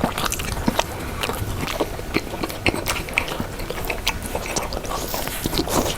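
Close-miked eating of spicy chicken wings: biting and chewing with many short, irregular clicky mouth sounds.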